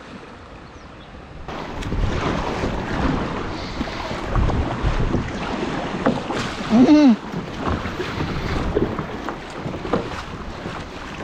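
Water rushing and splashing around a kayak, with wind buffeting the GoPro's microphone; the noise swells suddenly about a second and a half in. About seven seconds in, a person gives a short, loud shout that bends in pitch.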